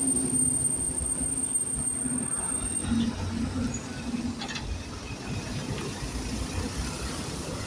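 A city bus's engine running with a low rumble, and a thin high whine that stops about three seconds in.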